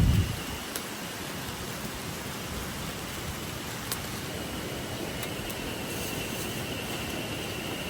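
Steady rushing of a river's flowing water, with a few faint clicks over it.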